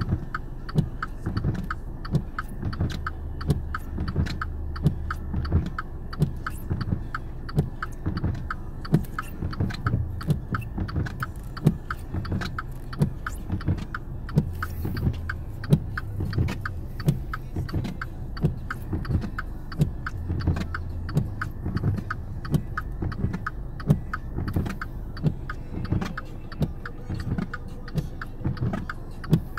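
Car running, heard from inside the cabin in snow: a steady low rumble with a fast, even ticking of about three clicks a second and the odd louder knock.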